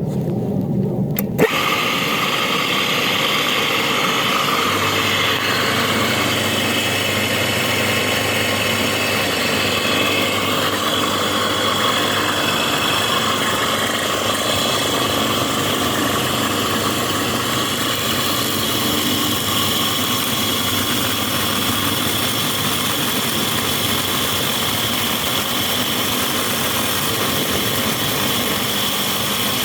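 A 2.2 kW, 3000 rpm motor starts with a click about a second and a half in, then runs steadily with a high whine over its running noise.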